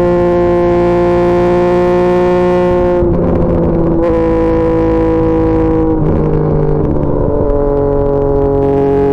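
Yamaha MT-09's inline three-cylinder engine running through an SC Projects CR-T exhaust under way, a steady pitched drone. The pitch drops in small steps about three and six seconds in and sags slightly in between.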